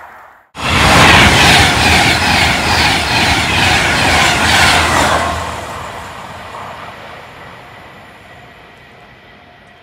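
Class 390 Pendolino electric train passing at speed close by, starting abruptly about half a second in: a loud rush of wheels and air with a regular clatter as each bogie goes by. After about five seconds the sound fades away as the train recedes.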